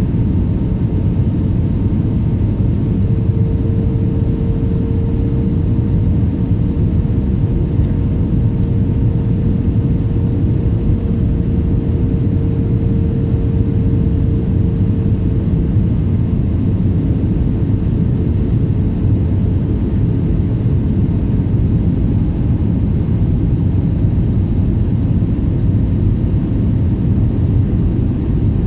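IndiGo airliner's engines and airflow making a steady, loud, low rumble during the approach to landing. A faint steady hum comes in about three seconds in and fades out partway through.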